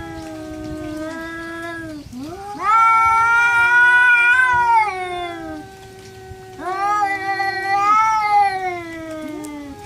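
Two stray cats caterwauling at each other in a fight standoff: long, drawn-out, overlapping yowls, one low and steady, the other higher and swelling louder about 3 seconds in and again about 7 seconds in.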